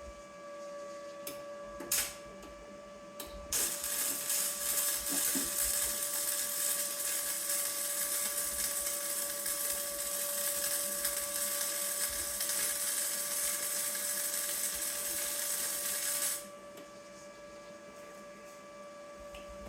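Electric arc welder laying a weld bead: a steady crackling hiss starts sharply a few seconds in, runs for about thirteen seconds, then cuts off. A steady machine hum sounds underneath throughout, with a couple of short clicks before the arc starts.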